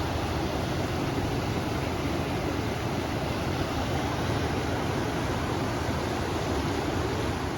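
A river flowing and wind blowing together, a steady, deep rushing that holds level throughout.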